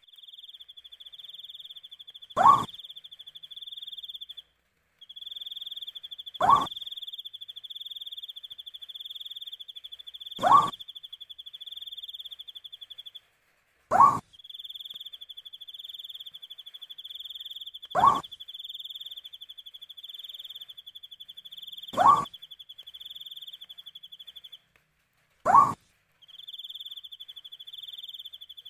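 An owl giving a single short, rising hoot about every four seconds, seven times, over a steady pulsing trill of crickets.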